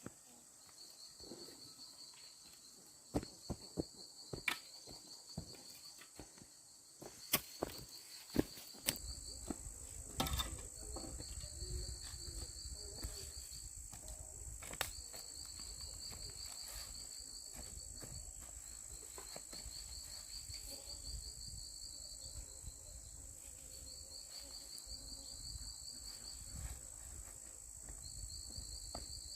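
Insects trilling in repeated stretches of two to three seconds with short gaps, over a steady high whine. Scattered sharp clicks and knocks come in the first third, then a low rumble sets in.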